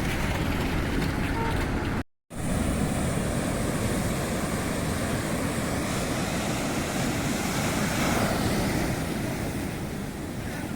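Gentle sea waves washing onto a sandy beach, a steady surf hiss with wind on the microphone. The sound drops out for a split second about two seconds in.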